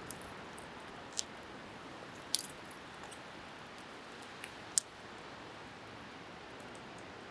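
Wood bonfire crackling, with three sharp louder pops among fainter ticks, over a steady hiss of wind and surf.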